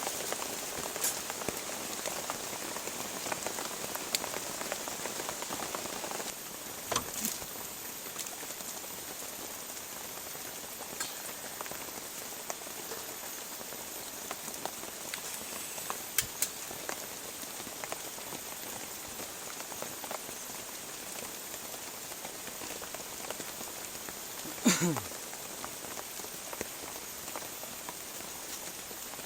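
Steady rain falling on surfaces, with scattered louder drop taps. About three-quarters of the way through, a short sound slides steeply down in pitch, the loudest moment.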